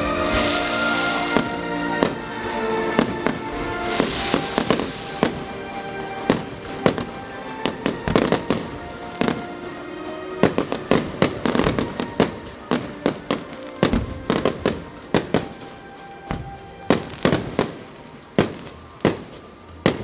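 Fireworks going off in quick succession: dozens of sharp bangs and pops, several a second at times, with music playing under them that fades out about halfway through.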